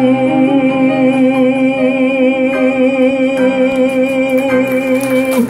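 Male voice holding the long final sung note of a Russian romance with vibrato, over piano chords. The note stops abruptly at the very end.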